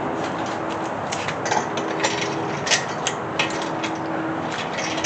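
Irregular light metallic clicks and clinks of long bolts and washers being handled and threaded by hand into an engine block, about a dozen in a few seconds, over a steady faint hum.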